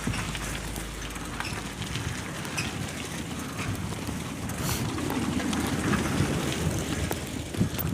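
A bicycle in motion: steady rushing road and tyre noise with many small scattered clicks and crackles.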